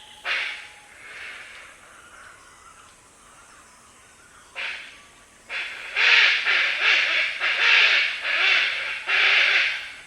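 Black hornbill (Anthracoceros malayanus) giving harsh, growling calls that sound little like a bird. One call comes at the start and another about four and a half seconds in, then a run of about six calls follows in quick succession.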